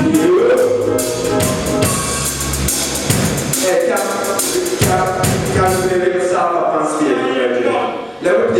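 Live band playing with a drum kit, bass drum included, and a sung melody line. The drums drop out about six seconds in while the pitched parts carry on.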